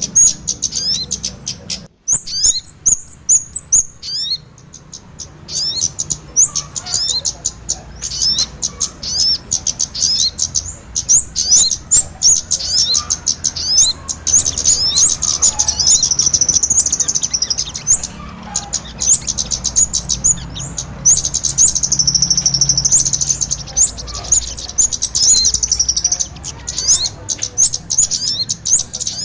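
Bird-lure recording of small birds, kemade and sogon ontong, chirping in a dense, rapid, high-pitched chatter, many short sweeping notes a second.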